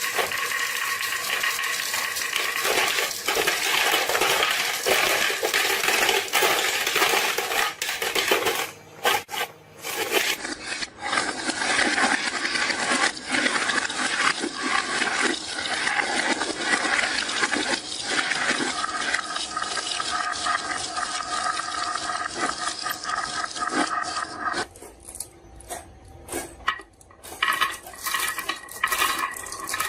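Many marbles rolling and clattering down a wooden marble run, a dense continuous rattle of small clicks. It thins to scattered separate clicks briefly about nine seconds in and again for a couple of seconds around twenty-five seconds in.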